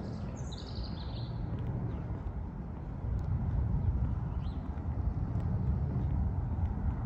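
A small bird gives a short two-note chirp about half a second in, with a few faint chirps later, over a steady low rumble that grows a little louder after about three seconds.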